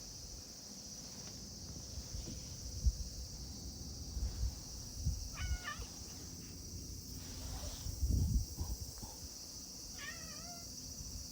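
Domestic cat meowing: two short calls, about five seconds in and again near the end, over low thumps and rumble.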